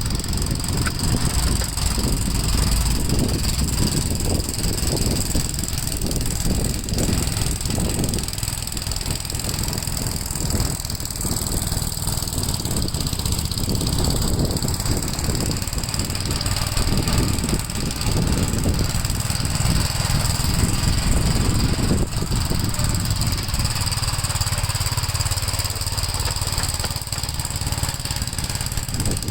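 Gravely L8 walk-behind tractor's engine running steadily.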